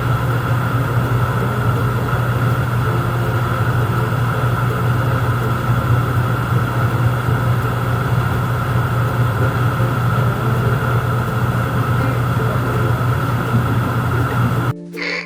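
A steady, even motor drone that holds unchanged and cuts off suddenly near the end.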